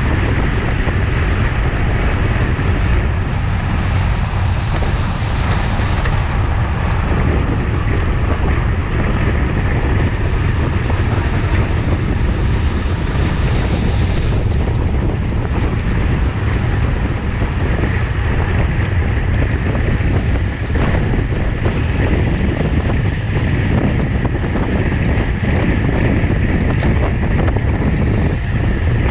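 Steady, loud wind rushing over the microphone of a camera carried by a road cyclist at racing speed.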